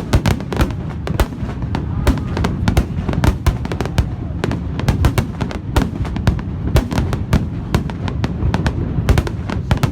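Fireworks display: a rapid, continuous barrage of aerial shells bursting several times a second, sharp bangs and crackles over a steady low rumble.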